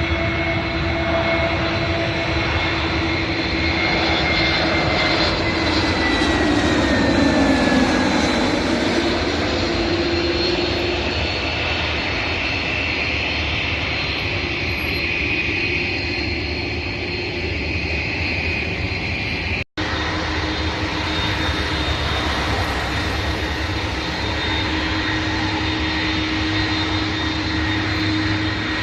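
Airliner jet engines running loudly and steadily as a plane passes, with a whine that falls in pitch over the first several seconds. The sound cuts out for an instant about two-thirds of the way through.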